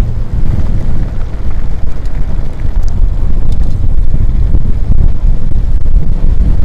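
Strong wind buffeting the microphone in a loud, steady low rumble, from a headwind met while cycling.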